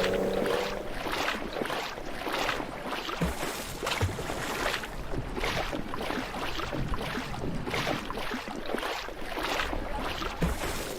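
Floodwater sloshing and splashing in an even rhythm, about three swishes every two seconds.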